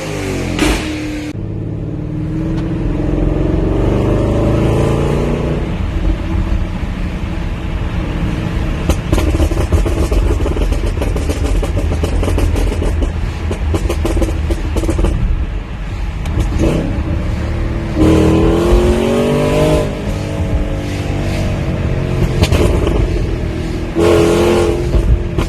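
Exhaust of a Stage 1 tuned Porsche Cayenne GTS: the engine climbs in revs under hard acceleration three times, shortly after the start, past the middle and near the end, with a steady deep rumble in between.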